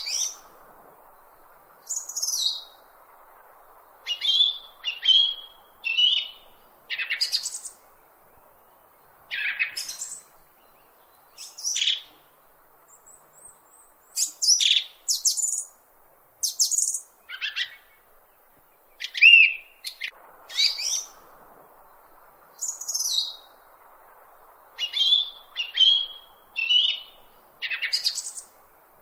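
Bird calling: short, high chirps repeated every second or two, some sliding down in pitch and some short steady notes, over a faint steady hiss.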